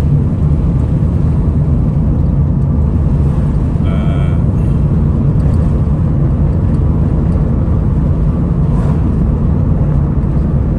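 Steady low rumble of road and engine noise inside a car driving at high speed on the highway. About four seconds in, a brief horn blast sounds once.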